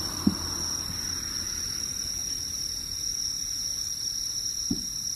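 Two short booms of fireworks bursting, about four and a half seconds apart, over a steady high-pitched tone.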